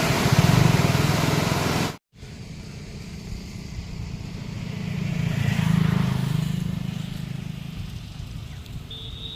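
A motor vehicle's engine passing, a low hum that grows louder to a peak about six seconds in and then fades, over a steady rushing noise. About two seconds in, a louder rush with an engine hum cuts off abruptly.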